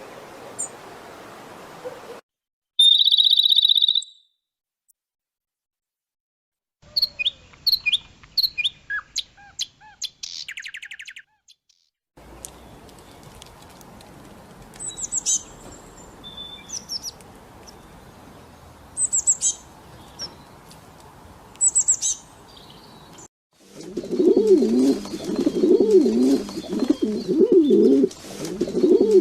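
A string of separate bird recordings: short high calls and chirps, with silent gaps between clips, then from about 24 seconds in, a pigeon's low repeated cooing.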